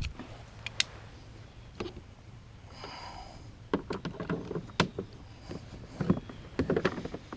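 Irregular knocks and clatter on a kayak, a few early and a denser cluster in the second half, over a low steady outdoor background.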